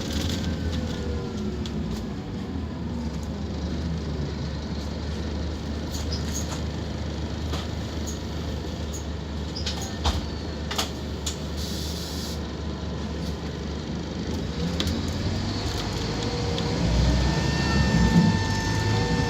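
Scania K230UB Omnilink bus engine running under way. Its pitch falls over the first few seconds, then climbs and grows louder near the end as the bus accelerates hard. A couple of sharp clicks come about ten seconds in, and a whine appears near the end.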